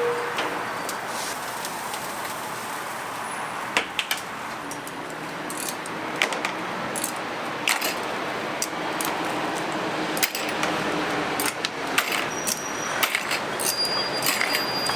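Light metallic clinks and clatter, irregular and frequent, some ringing briefly, over a steady background hiss. Metal kitchenware being handled.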